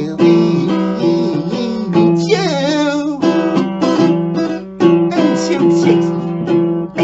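Acoustic guitar strummed in repeated chords, with a voice singing over it.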